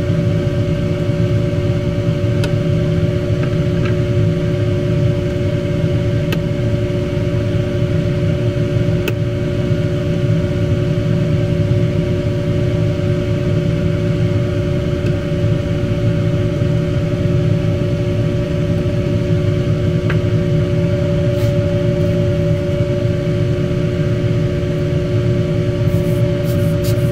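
Steady machine hum with several held tones over a low rumble, unchanging throughout, with a few faint ticks and a quick run of clicks near the end.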